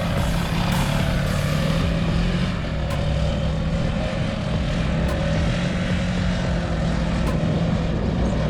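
Polaris dune buggy engine running at steady revs.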